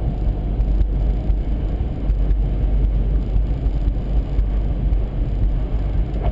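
Steady low rumble of a car being driven on a snowy highway, heard from inside the cabin: engine and tyre noise with no distinct events.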